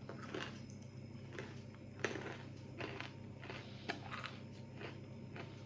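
Faint, scattered crunches and clicks of someone chewing spicy peanuts.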